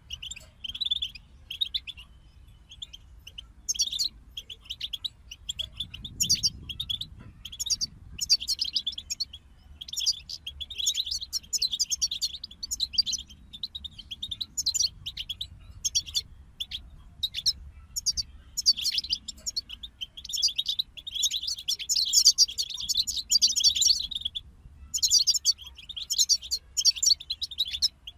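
European goldfinches singing: fast, twittering phrases that run almost without a break, pausing briefly a few times.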